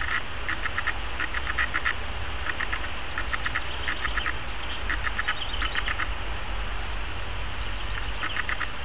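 A bird calling in short runs of quick, rasping notes, a run about every half second, stopping for a couple of seconds and then calling once more near the end, over a low steady rumble.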